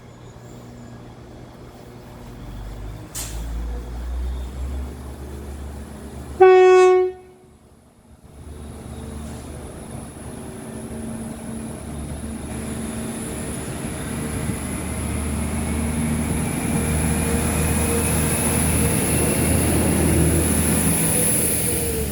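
Northern Ireland Railways Class 4000 diesel multiple unit departing. Its diesel engines throb, then the horn sounds one short, loud blast about six and a half seconds in. The engine and rail noise then grows steadily, with a rising whine as the train gathers speed. The unit is running with one engine dead.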